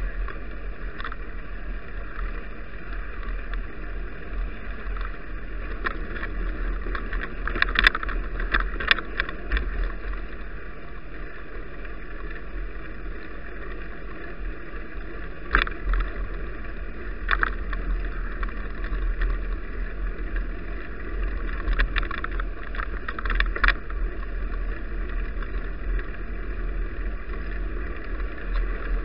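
Bicycle riding on a snowy road, heard through an action camera: a steady rumble of tyres and wind, with a few short knocks and rattles from bumps.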